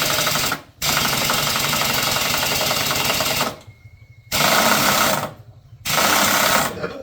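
A rapidly pulsing power tool running in bursts: one already going as the sound opens and stopping about half a second in, a long run of nearly three seconds, then two short runs of about a second each.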